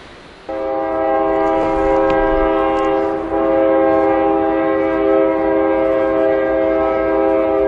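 Locomotive air horn sounding one long, loud blast of several steady tones together, starting suddenly about half a second in, with a brief dip about three seconds in.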